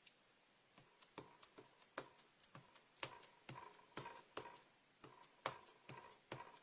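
Ink pad dabbed repeatedly onto a stamp to ink it: a faint run of light, irregular taps, about two to three a second, starting about a second in.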